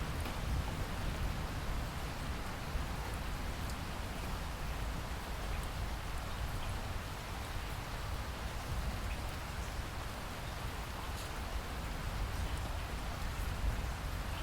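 Steady rainfall, an even wash of noise with scattered individual drops ticking on surfaces.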